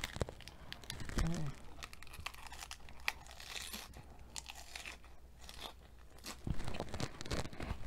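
A lettuce leaf wrap being bitten and chewed close to the microphone: sparse crunches and wet mouth clicks, getting denser and louder near the end.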